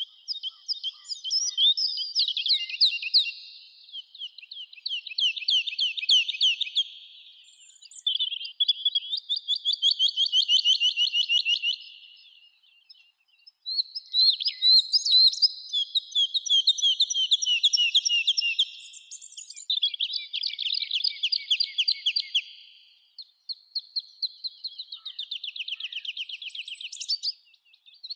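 Songbirds singing in a run of rapid trilled phrases, each about three to four seconds long, one after another with short gaps between them and some overlap.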